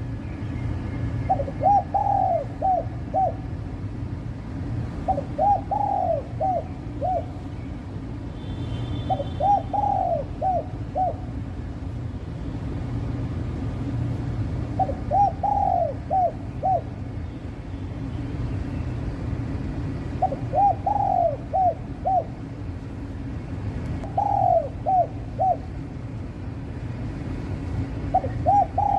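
A bird repeating a short, low call phrase, one longer note followed by two or three quick notes, seven times at intervals of about four to five seconds, over a steady low hum.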